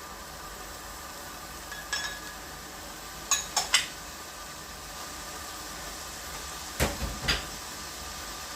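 Cooking utensil clinking and knocking against a pot or pan, a few sharp strikes a couple of seconds in and heavier knocks near the end, over the steady hiss of food sizzling in the pan.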